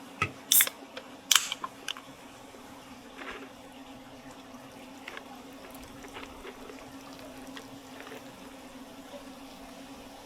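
Kitchen cooking sounds: a quick run of sharp clinks and knocks in the first two seconds, like utensils against a pan or dish, then scattered faint ticks over a steady low hum.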